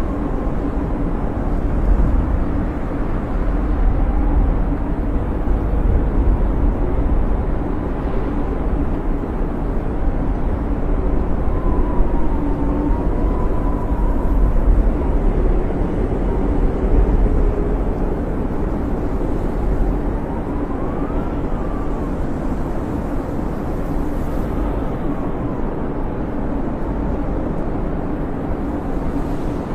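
Snowstorm wind: a steady low rumble of gusting wind with a faint whistling howl that rises and falls twice.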